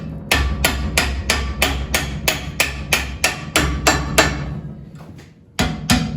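Blacksmith's hand hammer striking hot iron on an anvil, about three blows a second for some four seconds with a ring after each, then a pause and two more blows near the end. The blows are closing the bent bar stock around an inserted ½-inch piece to form the wrench's jaw.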